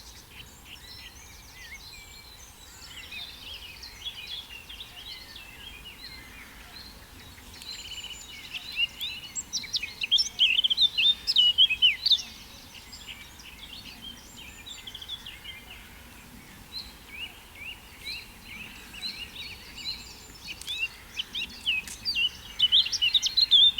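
Male blackcap singing: phrases of rapid, varied warbling, loudest from about eight to twelve seconds in and again towards the end, with quieter twittering between.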